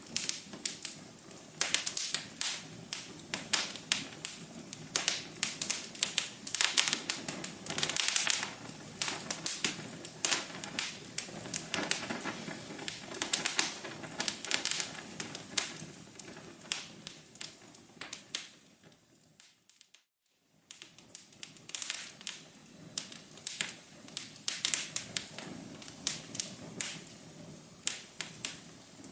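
Wood fire crackling in a fireplace: a dense, irregular run of sharp pops and snaps over a soft low hum. About two-thirds of the way through it fades away to near silence and returns a second later.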